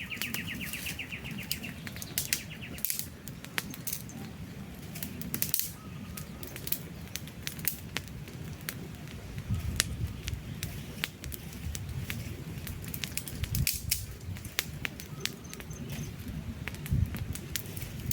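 Wood campfire burning, with irregular sharp crackles and pops of the logs over a steady low rumble of the flames.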